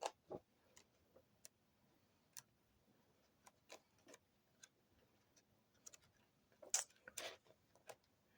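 Faint, irregular clicks and taps from a hardcover book being handled as its pages are shown, with a louder brief rustle about seven seconds in.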